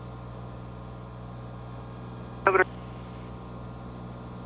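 Steady low drone of a Cessna 182's engine at climb power, heard as a hum through the cockpit audio. About two and a half seconds in there is one short, sharp burst of radio or intercom noise.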